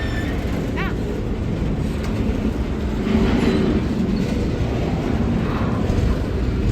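Freight train rolling past, a steady low rumble from the moving cars.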